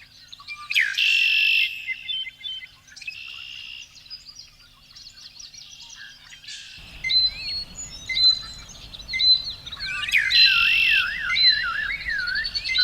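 Several birds calling and singing in overlapping chirps and trills. About seven seconds in, a low rushing background noise comes in. Over the last few seconds a quick up-and-down warbling call repeats under the chirps.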